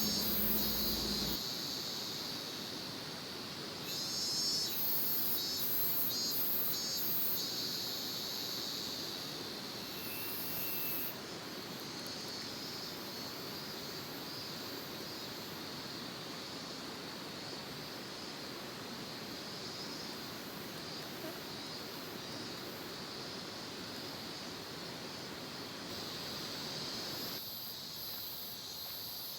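Insects trilling in a steady, high-pitched chorus, with patches of even higher chirping coming and going, over a steady hiss.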